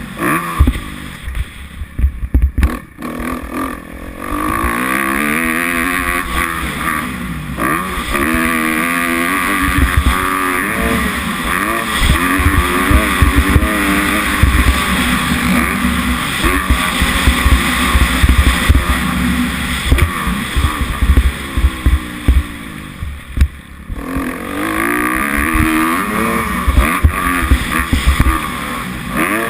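Kawasaki 250F four-stroke single-cylinder motocross engine, heard from on the bike as it is ridden round the track, its pitch rising and falling over and over as the throttle is opened and shut. It drops back off throttle about a second in and again past twenty seconds. Heavy, uneven wind rumble on the microphone runs underneath.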